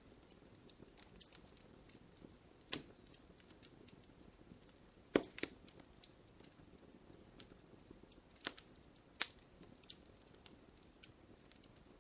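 Wood fire crackling in a fireplace: scattered small pops over a faint hiss, with a few louder snaps about three seconds in, about five seconds in, and twice more around eight to nine seconds.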